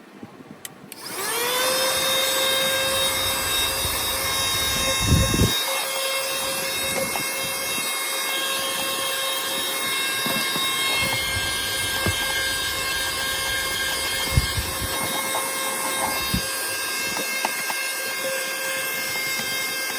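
Lachesis cordless handheld vacuum cleaner switched on about a second in, its motor whining up to speed and then running steadily at a high pitch, with a few short knocks along the way.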